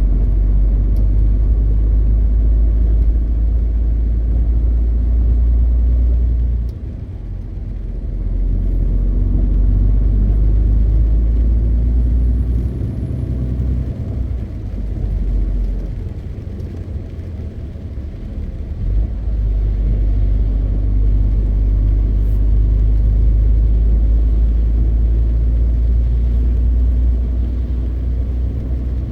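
MAN TGX 520 truck's diesel engine and road noise, a steady deep rumble while driving. It eases off twice, around seven seconds in and again for a few seconds in the middle, then picks back up.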